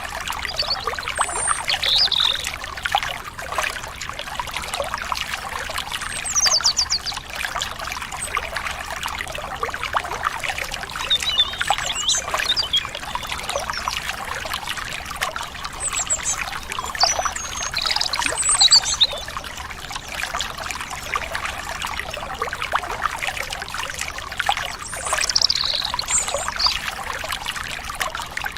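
Stream water trickling steadily, with birds chirping every few seconds in short high calls.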